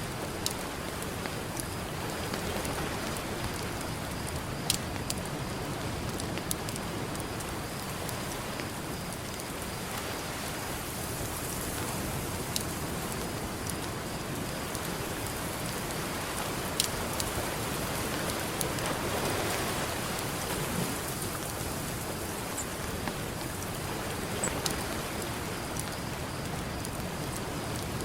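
Campfire crackling, with a few sharp pops scattered through it, over a steady wash of ocean surf that swells now and then.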